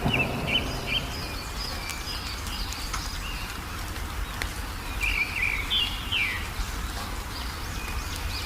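Songbirds chirping in short, quick notes, in clusters near the start and again about five to six seconds in, over a steady low background rumble.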